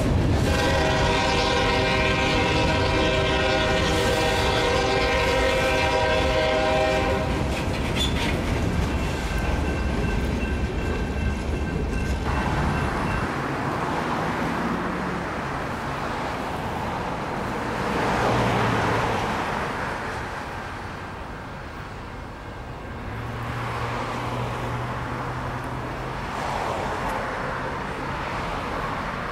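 Diesel freight locomotive sounding its multi-note horn in one long blast of about seven seconds over the low rumble of its engine. A fainter tone lingers for a few seconds after the horn. The engine rumble then drops away and the train's wheels roll past in swelling waves of rail noise.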